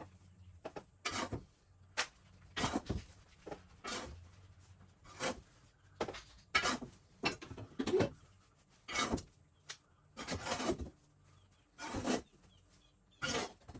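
Wood fire burning in a Napoleon NZ8000 wood-burning fireplace, logs crackling and popping in short irregular bursts, about one or two a second.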